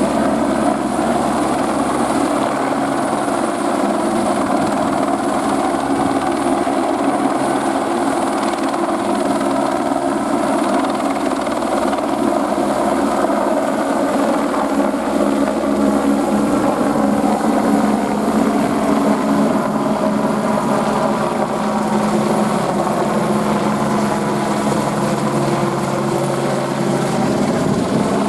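Airbus AS350 Écureuil helicopter running steadily, its rotor and turbine sound continuous, with its pitch wavering up and down in the second half.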